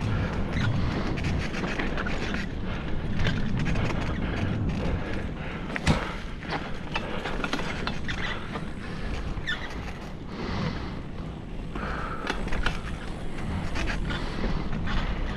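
Bicycle rattling and clattering over bumpy ground: a steady low rumble with frequent short knocks from the bike, and one sharper bang about six seconds in.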